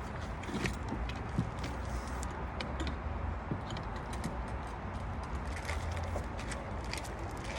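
Light clicks and rattles of fishing rods and reels knocking against each other and the rack as they are set into a car-mounted rod rack, over a steady low rumble.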